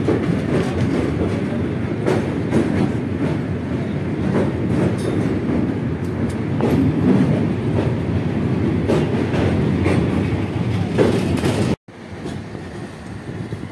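Passenger train running over a steel truss bridge, heard from the open coach doorway: a steady rumble with the wheels clacking over rail joints. Near the end the sound breaks off for an instant and comes back quieter.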